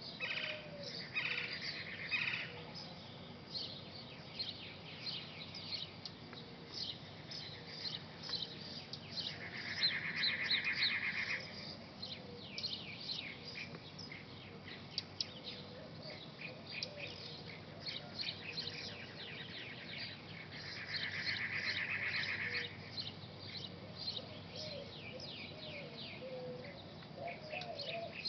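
Birds chirping: many quick, high chirps throughout, with two louder buzzing trills of about two seconds each, one about a third of the way in and one about three-quarters through. Softer, lower warbling calls come near the end.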